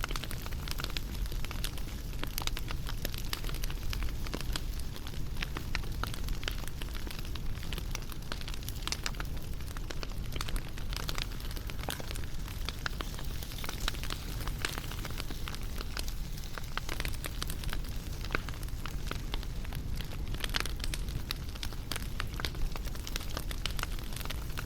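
Wood fire crackling and popping steadily, with irregular sharp snaps over a low rumble.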